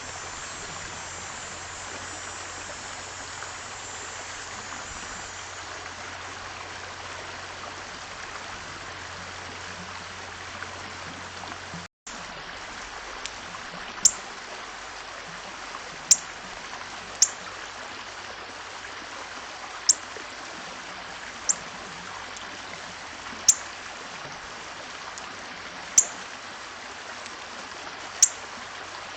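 A small bird gives sharp, high chirps, each a quick falling note, every couple of seconds through the second half, over a steady rushing background noise that drops out briefly about midway.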